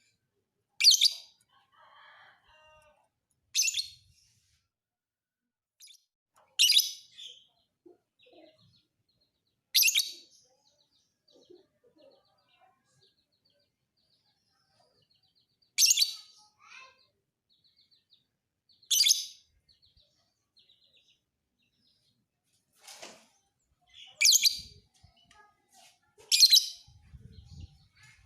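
Lovebird giving short shrill chirps, about nine in all, spaced irregularly a few seconds apart with little sound between them.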